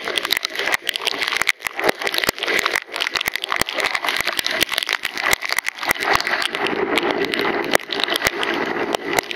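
Heavy rain drops striking the camera's microphone while riding a motorcycle: a dense, irregular crackle of sharp ticks over a steady hiss of wind and road spray.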